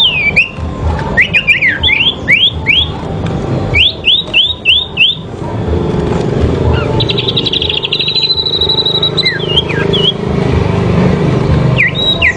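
Sirpu songbirds singing against each other: quick runs of short sliding whistled notes, then a fast trill about seven seconds in that settles into a held high whistle, over a steady low rumble.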